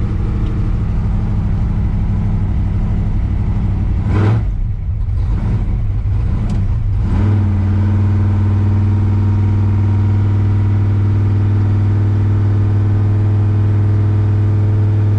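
Car engine under acceleration. About four seconds in, the steady note breaks for roughly three seconds with short rising revs, then settles into a steady drone.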